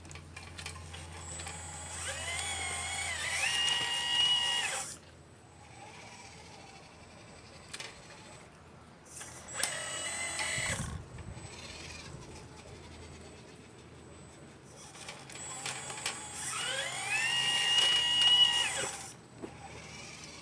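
Small electric motors of a 1/12-scale model excavator whining as it works. Three runs: the first and last rise in pitch and then hold before cutting off, and a shorter one comes midway.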